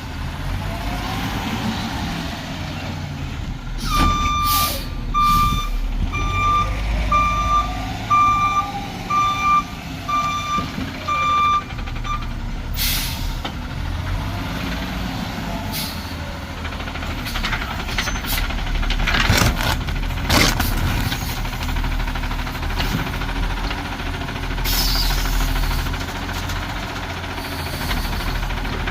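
Garbage truck running with its engine rumbling, its backup alarm beeping steadily for about eight seconds starting about four seconds in. Several sharp hisses of air break through at intervals, with a tone that rises and falls.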